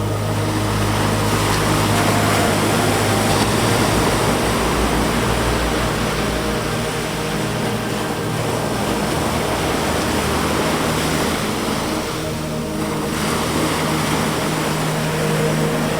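Ocean surf washing onto the shore in slow swells, under a slow ambient synth-pad track with long held low notes.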